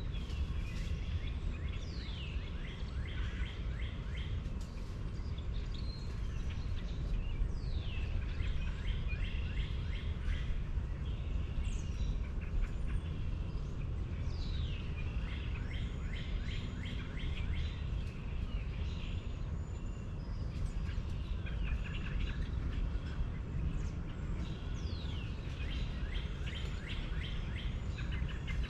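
A songbird singing the same phrase every few seconds: a falling whistle followed by a quick run of notes, over a steady low rumble.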